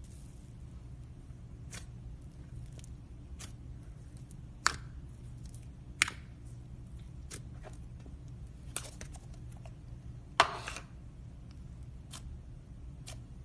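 Slime being played with by hand: scattered small pops and clicks a second or two apart, with a louder short crackle about ten seconds in, over a low steady hum.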